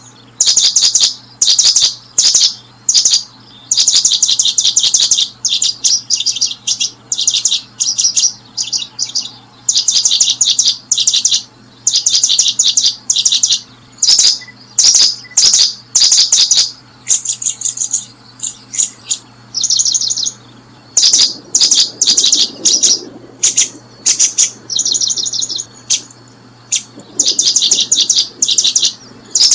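Small bird chirping: loud, rapid trains of high-pitched chirps repeated in short bursts, with brief pauses between them.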